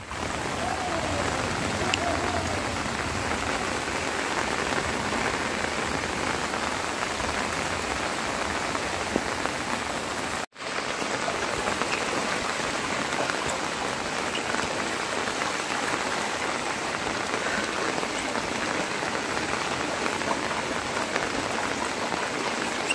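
Steady rain falling on floodwater, with a break for an instant about ten seconds in.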